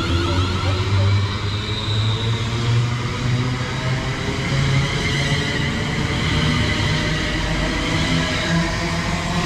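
Class 350 Desiro electric multiple unit pulling out of the station, with a steady electric whine from its traction equipment that climbs slowly in pitch as it picks up speed.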